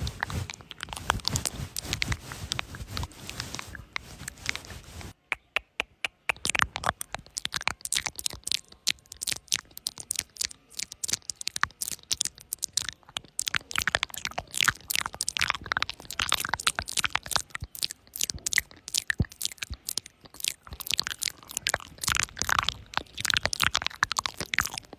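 Close-miked ASMR sound of a cat's fur being stroked and scratched: dense, rapid crackling and crunching. It drops out briefly about five seconds in, then resumes.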